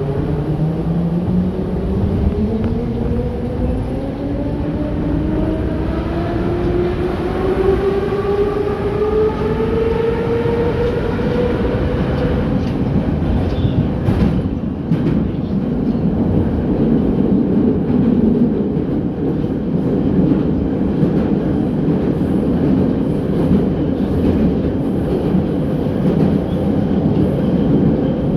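81-717.6 metro train's traction motors whining as it accelerates, the whine rising steadily in pitch for about twelve seconds and then holding level as the train runs at speed. Running noise of the wheels on the track throughout, with a few clicks about halfway through.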